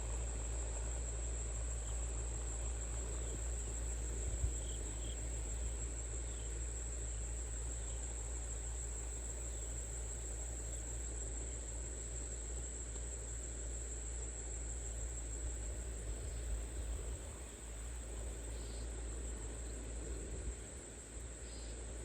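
A steady, unbroken high-pitched chorus of crickets with a low, even rumble underneath.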